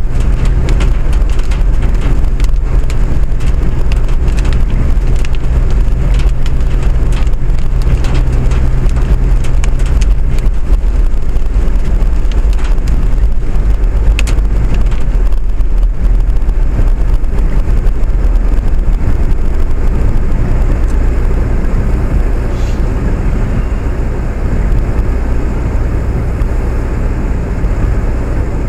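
Steady running noise of a moving vehicle, a loud continuous rumble with a low hum whose pitch shifts about ten seconds in.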